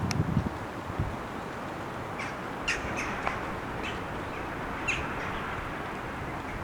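About six short, sharp bird calls scattered between two and five seconds in, over steady outdoor background noise, with low wind buffeting on the microphone at the start.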